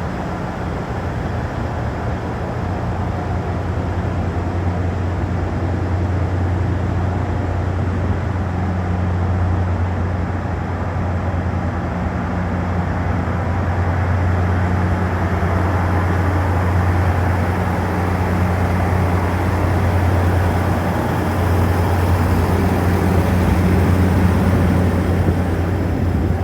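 A train running at the station: a steady low hum over a constant rumble, growing slightly louder toward the end.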